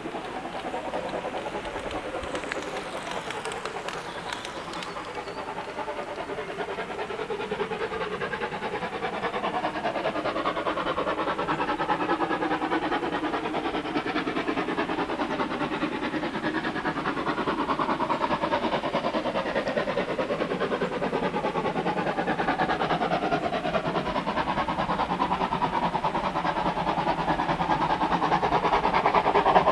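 Heritage railway train running toward the listener, growing steadily louder, with slowly wavering tones from its wheels on the rails.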